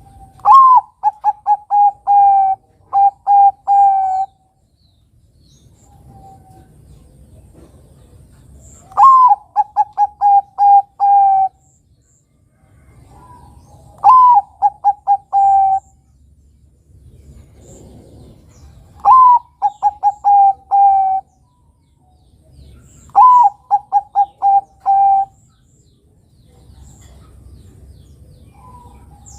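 Zebra dove (perkutut bangkok) singing: five phrases a few seconds apart, each a high note that drops into a quick string of short coos and ends on a longer coo.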